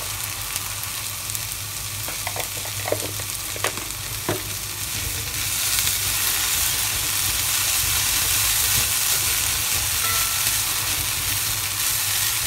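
Green beans and potatoes sizzling in oil over a high flame in a metal kadai, stirred with a wooden spatula. A few short taps and scrapes of the spatula against the pan come a couple of seconds in, and the sizzle grows a little louder about halfway through.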